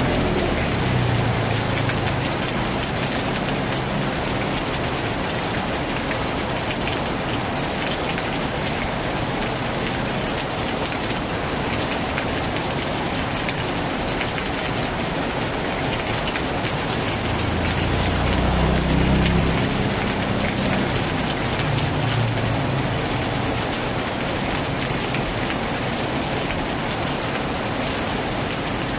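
Heavy rain pouring steadily onto a tin roof. A low rumble dies away just after the start, and another swells and fades about two-thirds of the way through.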